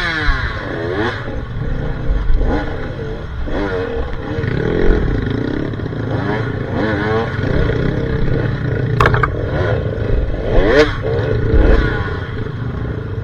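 Dirt bike engines revving up and down repeatedly over uneven ground, with a sharp knock about nine seconds in.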